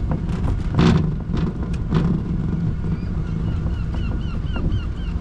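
Seaside road train running along with a steady low rumble, with a few sharp knocks in the first two seconds and a rapid run of short high chirps, a few a second, from about three seconds in.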